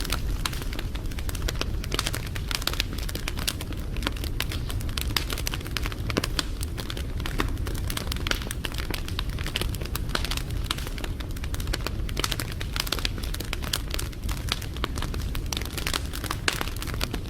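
Wood fire crackling steadily, with dense sharp snaps and pops over a low rumble.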